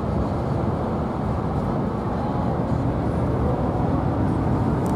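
Steady rumbling road and engine noise of a moving vehicle.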